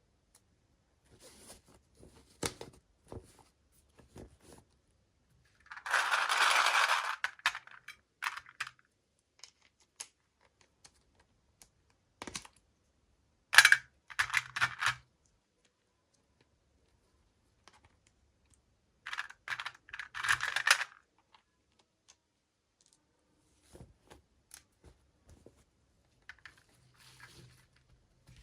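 Toy packaging and small plastic pieces being handled: scattered light clicks and taps, with three louder bursts of rustling and crinkling, the first and longest about six seconds in.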